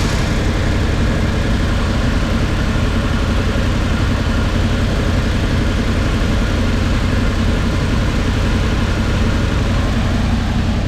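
1979 Ford F-150's V8 engine idling steadily after fresh plugs and wires, now firing on all eight cylinders and running much better. It still idles high while warming up, and the owner suspects a vacuum leak.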